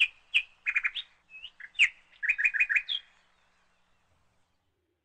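A small bird chirping: a string of short, high chirps, some in quick runs of three or four notes, stopping about three seconds in.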